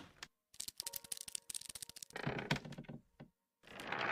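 Sound effect of rapid light tapping and clicking, many quick clicks for about a second and a half, followed by duller knocks, standing for a strange noise like small kicks and light scurrying steps.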